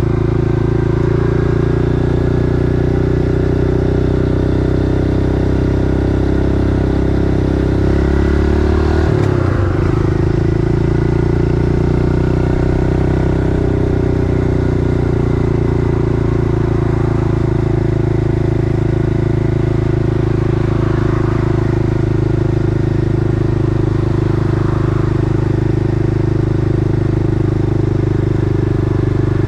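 Small four-stroke single-cylinder pit bike engine running steadily under way. Its note shifts in pitch about a third of the way through, then holds steady again.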